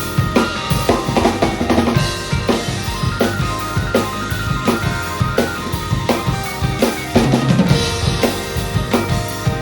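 Drum kit played along to a pop-rock backing track: a fast, steady beat of kick and snare hits over keyboard and synth lines, growing a little louder about seven seconds in.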